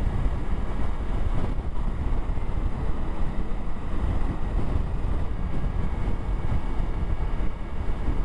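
Wind buffeting the microphone on a moving motorcycle, a steady low rumble and rush with the bike's engine and road noise underneath.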